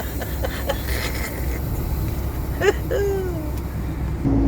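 Semi truck engine running at idle, heard from inside the cab as a steady low rumble. A short falling squeal comes about three seconds in, and a steady hum starts near the end.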